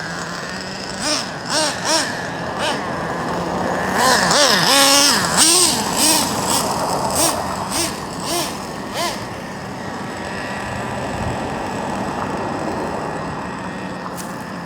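Nitro RC monster truck's small 3.3 nitro engine revving in repeated short throttle blips, each pitch rising and falling, with a longer spell of hard rapid revving about four to six seconds in, then running more steadily.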